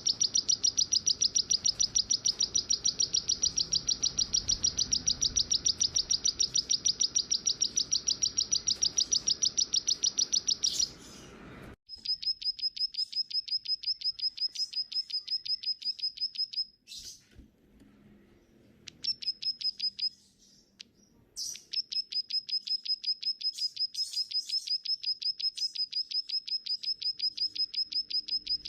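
A small songbird calling in a rapid, even string of high chips, several a second. The string breaks off about twelve seconds in and stops again for a few seconds in the middle, then carries on steadily.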